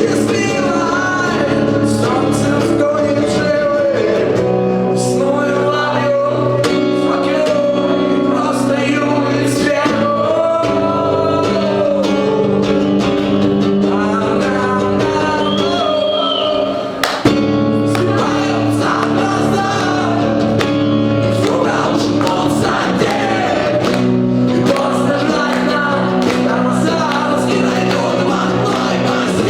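A song performed live by a singer with acoustic guitar accompaniment. There is a short break with a sharp knock just past halfway.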